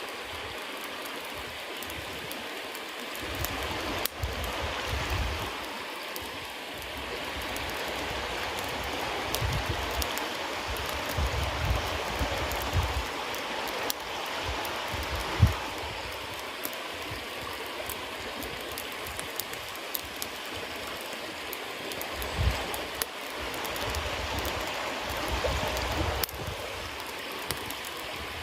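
Bonfire of wet cedar leaves burning with a steady hiss and a dense patter of small crackles, one louder pop about halfway through, and irregular low rumbles.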